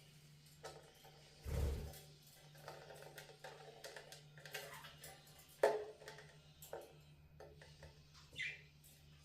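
Budgies moving and pecking about: scattered light clicks and taps of beaks and claws, with a short dull bump about a second and a half in and a sharper click midway. There is one brief high chirp near the end.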